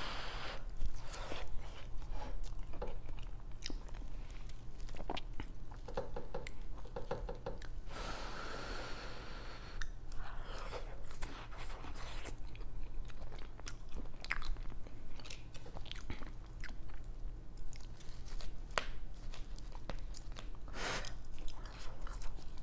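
Close-miked chewing and mouth sounds of someone eating cheese-covered steak fries: soft wet smacks and clicks. There is a breathy rush lasting about two seconds, eight seconds in, over a steady low hum.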